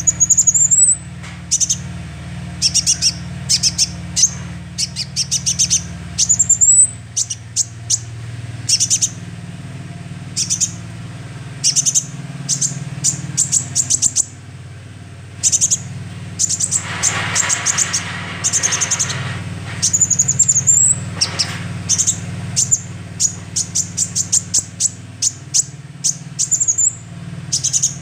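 Young sunbird singing: rapid runs of very high, sharp chirps, broken now and then by short rising whistled notes and, in the middle, a harsher rasping stretch. A steady low hum runs underneath.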